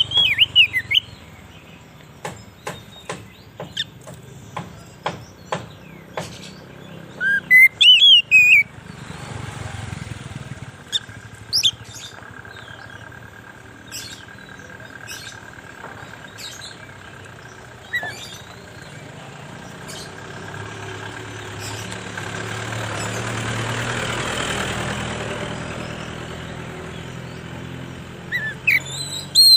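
Oriental magpie-robin (kacer) singing loud, sweeping whistled phrases at the start, about a quarter of the way in and again at the end, with short sharp ticks between them. In the second half a rushing noise swells and fades.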